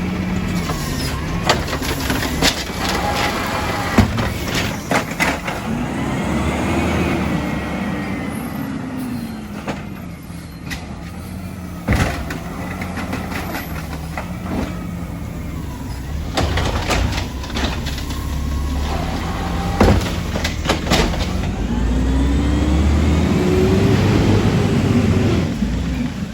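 Garbage truck engine running, revving up and easing back down twice, with sharp knocks and clatter in between.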